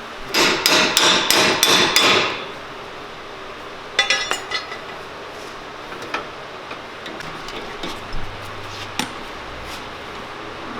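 Hammer blows struck in quick succession, about eight over the first two seconds, then a short cluster of strikes about four seconds in, followed by scattered lighter taps.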